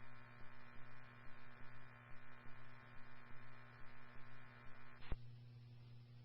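Police scanner radio transmission: the channel keys open with a click, carries about five seconds of faint, garbled, unintelligible audio over a steady hum, then cuts off with a squelch click.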